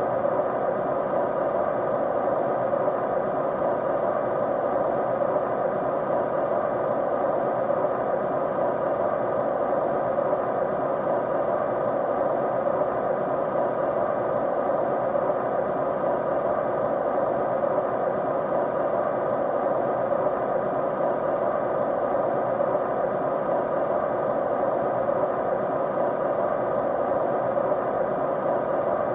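Steady white noise, an unchanging broad hiss weighted towards the lower middle of the range, with a few faint steady tones running through it.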